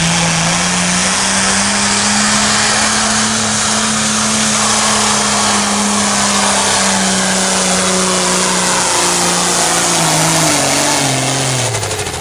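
A pulling tractor's engine running loud at high revs down the track: the pitch climbs at the start, holds steady for most of the run, then drops off in steps near the end as the throttle comes back.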